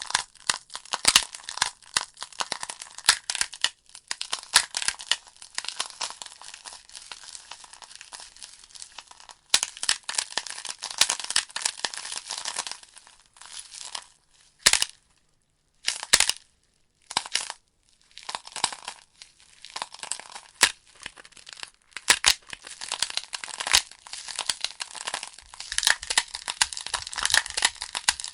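Wood logs burning in a fireplace, crackling and popping: a dense, irregular run of sharp snaps over a soft hiss. A little past the middle it thins to a few lone pops with moments of near silence, then picks up again.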